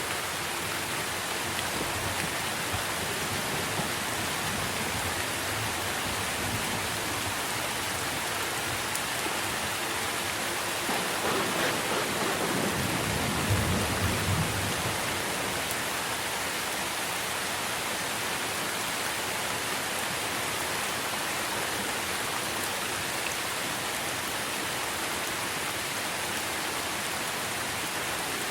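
Steady rain falling on trees, an even hiss of drops on leaves. About halfway through, a low rumble of thunder swells for a few seconds and fades.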